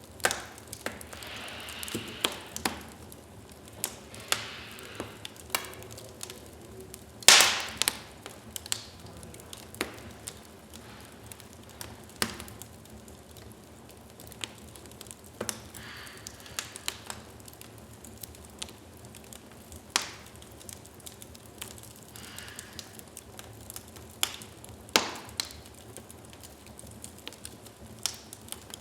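Wood fire burning in a fireplace: a low steady hiss with irregular crackles and sharp pops from the logs, the loudest pop about seven seconds in, and now and then a soft hiss of escaping gas.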